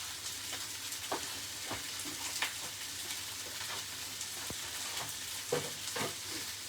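Jerk-seasoned chicken pieces sizzling in a hot pan, with a few short scrapes of a utensil stirring them through.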